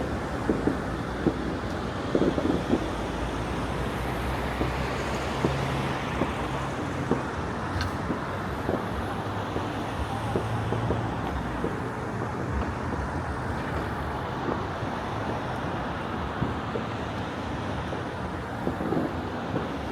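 Distant fireworks popping and banging over a steady rumble of city traffic, with the pops clustered at the start and again near the end.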